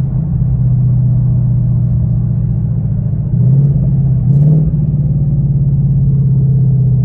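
2019 Mustang GT's 5.0 V8 on an E85 tune with an aftermarket intake, running steadily at low revs, with two short blips of the throttle about three and a half and four and a half seconds in.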